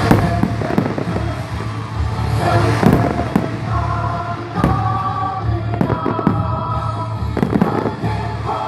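Display fireworks: aerial shells bursting in a string of irregularly spaced bangs, several close together.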